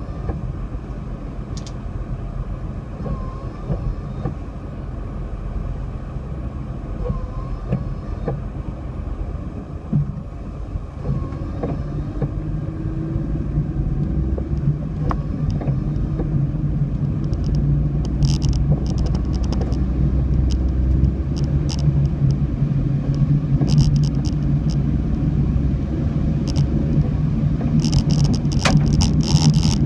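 Car driving: a steady low engine and road rumble, the engine note rising and then holding steady about a third of the way in, with scattered sharp ticks through the second half.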